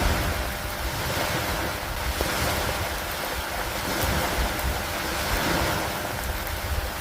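Steady heavy rain hiss with a low, fluttering rumble underneath, swelling and easing gently every couple of seconds.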